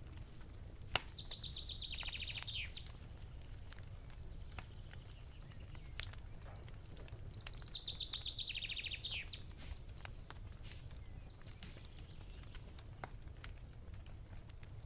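A songbird sings two rapid trilled phrases about six seconds apart, each a quick run of many notes falling in pitch and lasting about two seconds. Faint scattered crackles of a campfire and a steady low rumble sit underneath.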